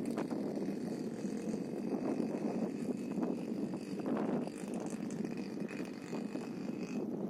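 Minsk motorcycle's single-cylinder two-stroke engine running steadily.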